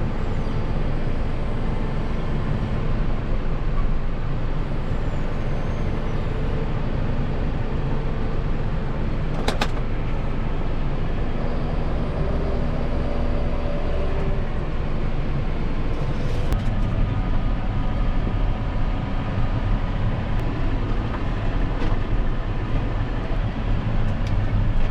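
Diesel engine of a payloader (wheel loader) running steadily under load while pushing heavy snow. A single clank about ten seconds in.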